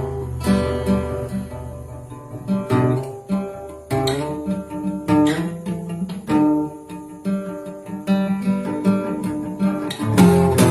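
Acoustic guitar playing an instrumental passage, with chords strummed and left to ring over a sustained low note, and no singing.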